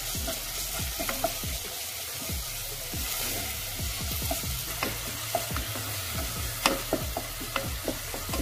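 Onion-tomato masala sizzling in hot oil in a nonstick pot while a wooden spatula stirs and scrapes through it, with scattered small pops and ticks.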